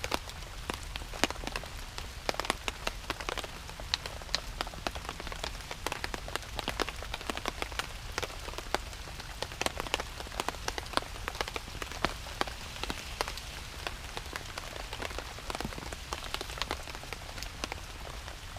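Steady rain falling, with many sharp, close drop impacts pattering throughout.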